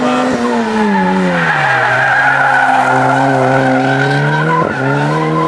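Rally car engine slowing hard, its pitch dropping steeply about a second in, then pulling back up slowly, with a brief dip near the end. There is a hiss of tyre noise through the middle.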